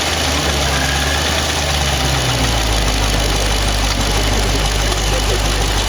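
Jeep Grand Cherokee Trackhawk's supercharged 6.2-litre V8 idling steadily. Its idle note drops a little about two seconds in.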